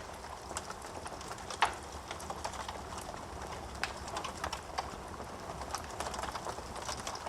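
Wood fire burning in a fireplace: a steady low hiss of flames with frequent irregular crackles and snaps from the burning wood, the loudest a sharp pop about a second and a half in.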